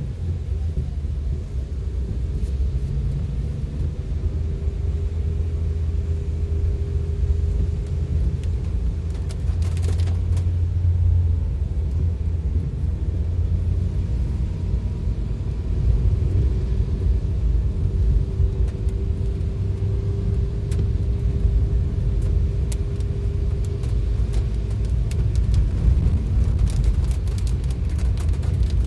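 Vehicle driving through heavy rain: a steady low road-and-engine rumble under a haze of rain noise, with scattered sharp ticks that grow more frequent near the end.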